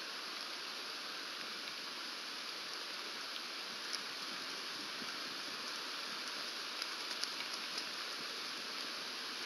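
Steady rain hissing as heard through an outdoor nest-cam microphone, with a few faint short ticks about four seconds in and a small cluster of them later on.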